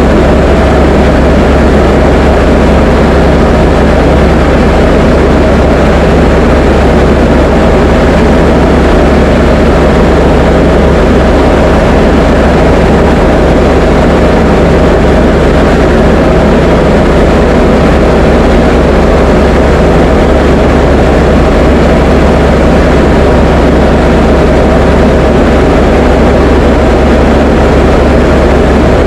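Diamond DA20 light aircraft's piston engine and propeller heard from inside the cockpit in flight: a loud, steady drone that holds the same pitch and level throughout.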